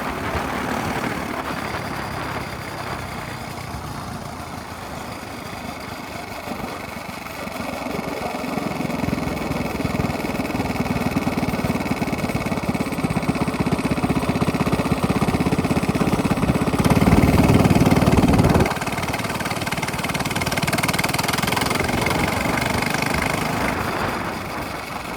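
Minibike engine with a straight-pipe exhaust running. It grows louder about a third of the way in, is loudest for a moment past the middle, then drops off suddenly.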